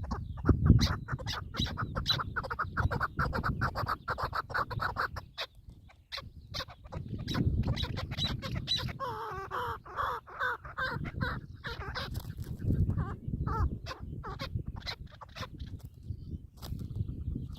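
Partridges calling in rapid runs of clucking notes, one run in the first few seconds and another fuller run about halfway through, over a low rumble.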